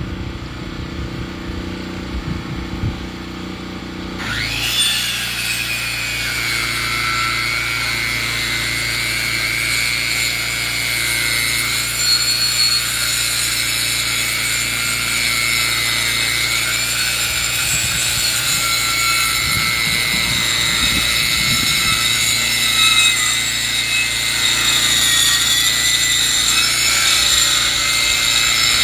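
A sawmill running: its engine hums at first, then about four seconds in the blade bites into a log and a loud, steady cutting noise with a high, ringing whine carries on as the board is sawn.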